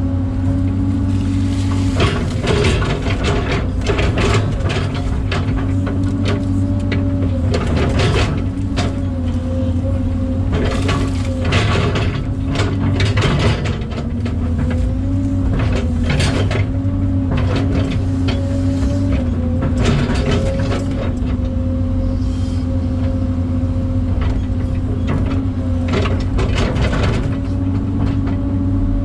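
Kobelco SK250 LC excavator working: its diesel engine and hydraulics run steadily with a held whine that dips and rises a little under load, broken by frequent clanks and rattles of metal.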